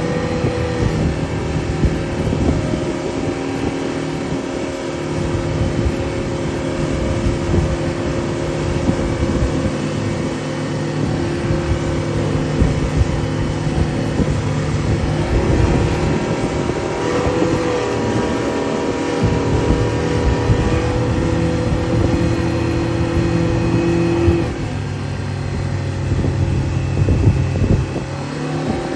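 An engine running steadily, with its pitch shifting a few times, over a rushing noise.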